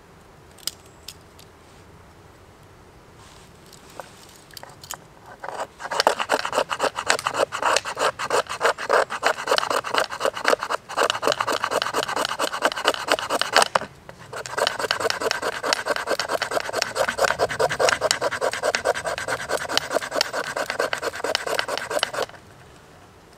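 Rapid, even back-and-forth rasping strokes of a hand tool on wood, with a short pause about halfway through.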